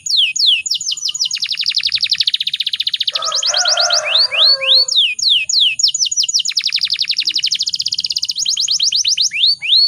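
Domestic canary singing: a continuous song of quick downward-sweeping whistled notes running into fast trills, with a lower, harsher chattering phrase about three seconds in.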